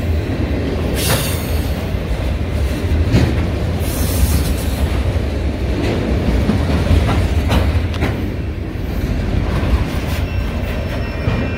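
Freight train of multilevel autorack cars rolling past close by: a steady low rumble of steel wheels on rail, with sharp wheel clacks over the rail joints every second or two.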